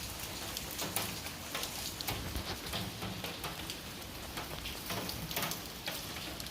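Rain falling, with many separate drops ticking on nearby surfaces.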